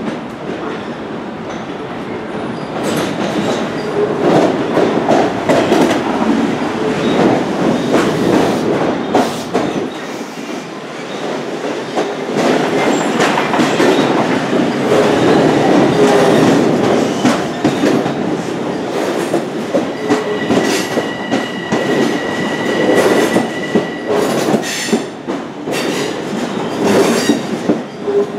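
Silver electric commuter train running past close by, steel wheels clattering over the rail joints in a run of sharp clicks. A high steady squeal sounds for about four seconds roughly twenty seconds in.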